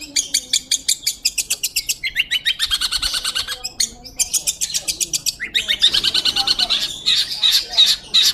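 Long-tailed shrike singing loud, fast chattering runs of repeated high notes, about ten a second, broken by short pauses. Near the end the notes slow to a few a second.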